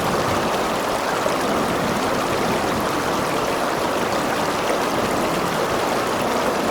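River water rushing and gurgling steadily over rocks.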